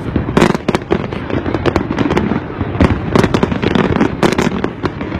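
Fireworks going off, a rapid run of sharp bangs and crackles one after another, over the low hubbub of a crowd.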